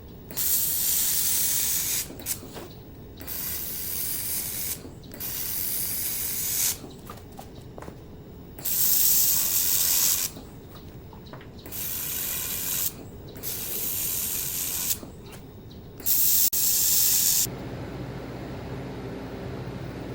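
Handheld laser welder working in seven bursts of loud hissing, each one to two seconds long with short pauses between. A low steady hum takes over near the end.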